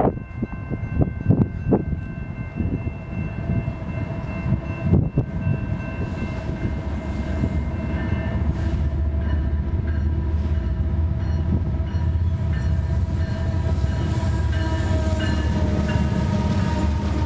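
BNSF freight train led by diesel locomotives approaching and passing close by, its low engine rumble growing louder from about six seconds in. Steady ringing tones, typical of grade-crossing bells, run throughout, with a few low thumps in the first seconds.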